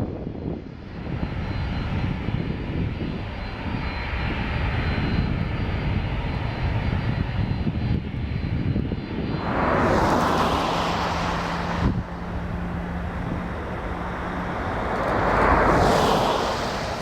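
Jet engines of a Boeing 767-316ER airliner running during takeoff, a steady noise that swells loudly about ten seconds in and again near the end.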